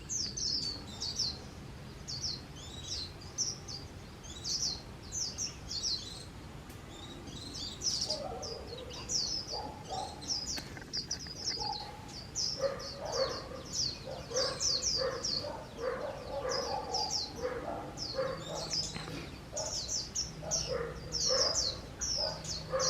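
White-eyes twittering: a dense run of rapid, high, thin chirps throughout. Lower repeated notes join in from about eight seconds in.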